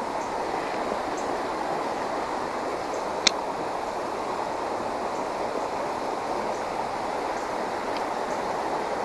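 Creek water flowing steadily over shallows, a constant rushing babble, with a single sharp click about three seconds in.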